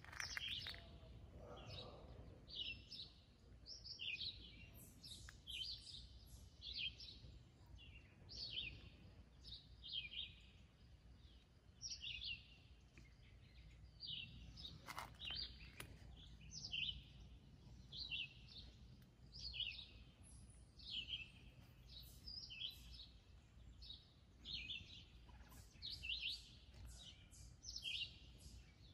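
Birds chirping: short, high notes repeated about once or twice a second, over a faint low outdoor hum.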